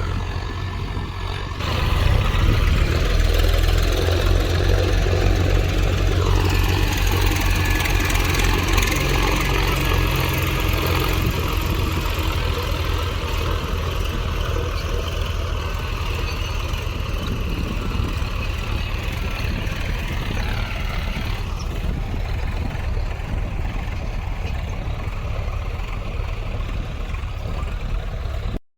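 Tractor diesel engine running steadily, getting louder about two seconds in; the sound cuts off abruptly just before the end.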